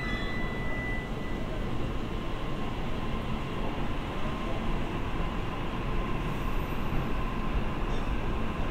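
Steady low rumble of electric trains in a station rail yard, with a faint steady whine, as a 209-series electric train approaches from the distance.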